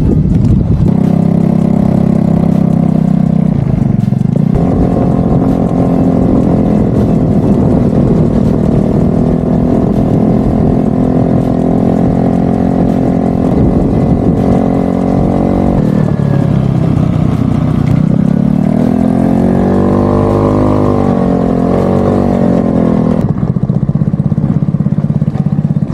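Honda Ruckus scooter's 49cc single-cylinder four-stroke engine running while ridden, holding a steady note for long stretches. Its pitch drops about 16 seconds in, then rises and falls a few times as the throttle is opened and closed.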